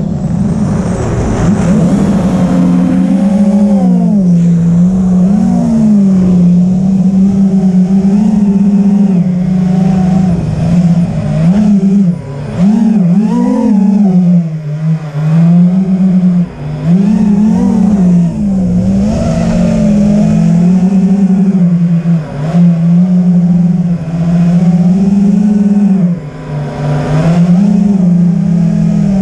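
Loud motor-like drone whose pitch wavers up and down continuously, with a few brief dips in level.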